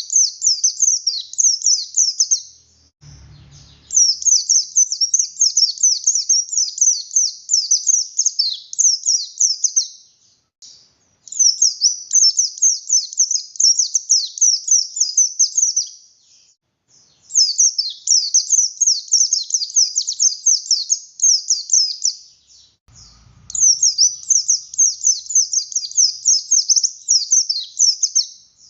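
Buxtoni white-eye (pleci buxtoni) singing a fast, high twittering song full of rapid chirps. It comes in long bursts of several seconds with short pauses between them.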